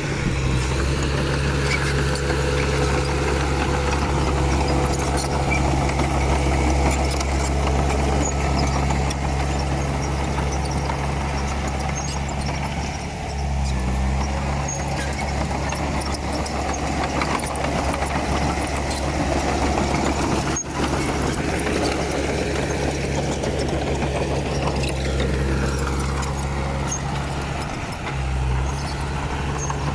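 Komatsu D31P crawler bulldozer's diesel engine running steadily under work, with brief shifts in the engine note about a third of the way in and again near the end, over a haze of mechanical noise.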